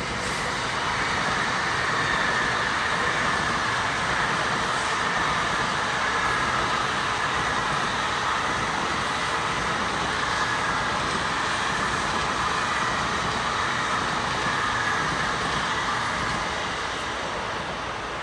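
Tokaido Shinkansen train passing close by: a steady rushing rumble of wheels and air from the long run of cars. It builds over the first couple of seconds and eases off near the end as the last cars go by.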